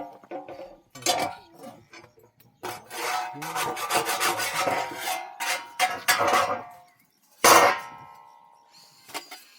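Irregular scraping and rubbing strokes, then a loud sharp clang with brief ringing about seven and a half seconds in.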